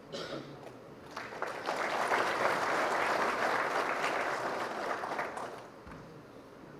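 Audience applauding, swelling in about a second in, holding for a few seconds and dying away near the end.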